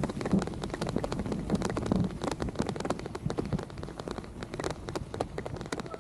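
Rain during a bicycle ride: dense, irregular ticks of raindrops hitting close to the microphone over a low steady rumble of tyres and wind. The ticks thin out and get quieter in the second half.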